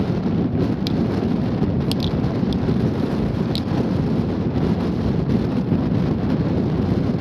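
Strong wind buffeting the microphone: a steady low rumble, with a few faint ticks.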